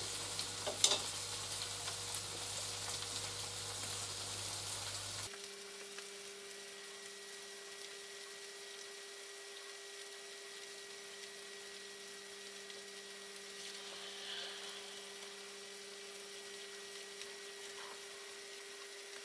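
Frozen butter vegetables and noodles sizzling quietly in a nonstick frying pan while the frozen butter thaws and melts. From about five seconds in, a steady faint hum sounds under the sizzle.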